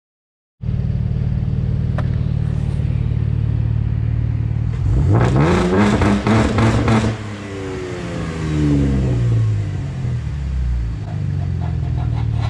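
Stock 2015 Chevrolet Camaro's 3.6-litre V6 idling, blipped hard once about five seconds in so the revs climb for about two seconds, then fall back to a steady idle.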